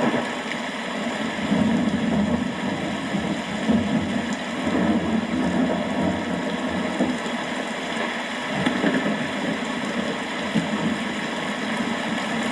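Steady rain falling, with a low rumble of thunder that swells and fades underneath it.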